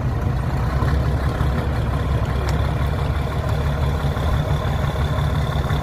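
Heavy truck engine of a trial truck running steadily at low revs, with a deep rumble; a thin high whine joins in about halfway through.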